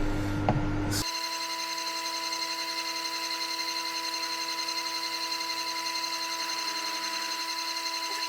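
Milling machine running a drill bit into a seized, broken bolt, with a steady whine of several fixed tones. The sound changes abruptly about a second in, from a low hum with a few clicks to the steady whine.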